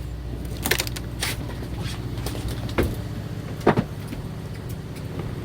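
Fishing boat's machinery humming steadily and low, with a few sharp clicks and knocks about one, three and four seconds in.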